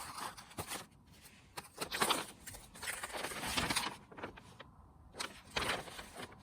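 Irregular handling noises: scattered clicks, light knocks and short rustling bursts of things being moved and set down.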